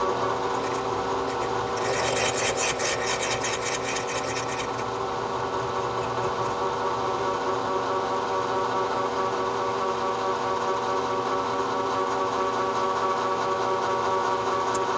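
Bridgeport milling machine running with a steady motor hum. About two seconds in, a harsh rasping cutting noise lasts for roughly three seconds as the drill bit cuts into the workpiece, then stops while the spindle keeps running.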